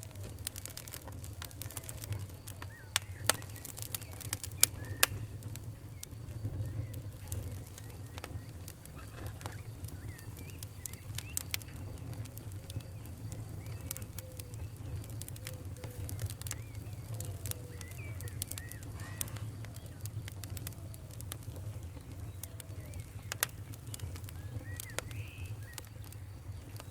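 Wood fire crackling in a fireplace: irregular sharp pops and snaps over a steady low rumble, the loudest pops a few seconds in. Faint short squeaky whistles come and go between them.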